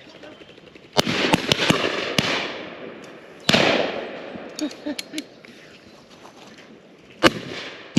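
Shotgun shots on a driven pheasant shoot: a report about a second in, followed by several quicker, fainter shots, another loud report with a long echoing tail about three and a half seconds in, and one more sharp shot near the end.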